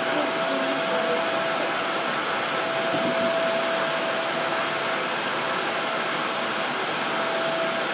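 Vacuum cleaner running steadily: a constant rushing motor noise with a steady whine in it.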